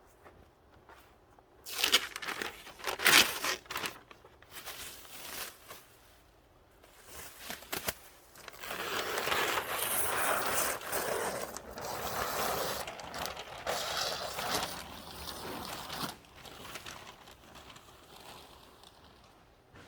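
Close crinkling and scraping handling noise: a few sharp scrapes about two to three seconds in, then a longer stretch of rustling that fades out toward the end.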